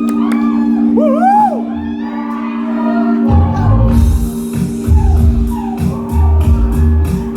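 Live rock band playing in a hall, with audience whoops over a held chord. About three seconds in, the drums and bass come in, with cymbals soon after.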